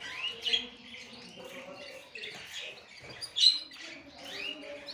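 Several small cage birds chirping, a busy overlap of short rising and falling notes, with louder calls about half a second in and again about three and a half seconds in.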